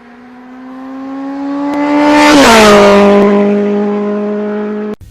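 A motor vehicle passing by at speed. Its engine note swells as it approaches, drops in pitch as it passes about halfway through, then holds steady and cuts off suddenly near the end.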